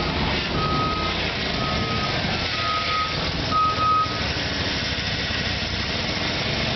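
Back-up alarm on a 1990 Ford F-350 dump truck beeping about once a second in a single tone, stopping about four seconds in, over the truck's engine running.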